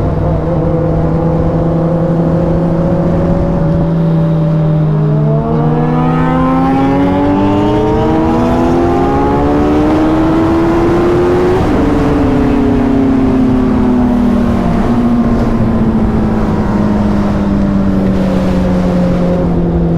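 Superbike inline-four engine running steadily, then rising in pitch for about six seconds as it accelerates, then falling slowly as it slows.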